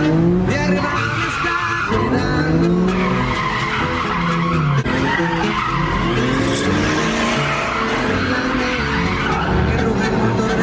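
Car engine revving up and down again and again over continuous tire squeal, as a car spins its wheels on pavement.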